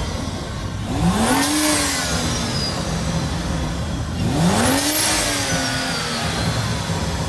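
A car engine idling with a rumble and revved twice, about a second in and again about four seconds in; each time the pitch rises quickly and then falls back to idle.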